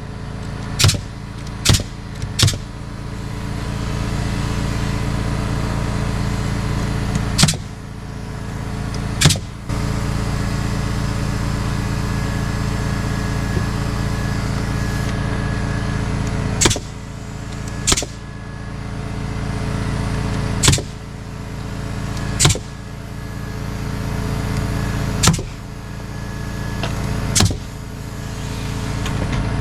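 An engine running steadily, broken by sharp clicks every few seconds.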